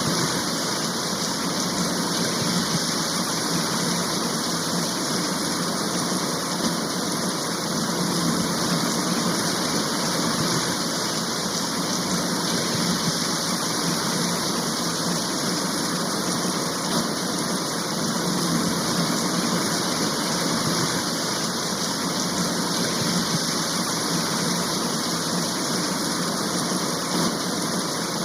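Steady downpour of a rain shower, an even hiss of rain that holds unchanged throughout.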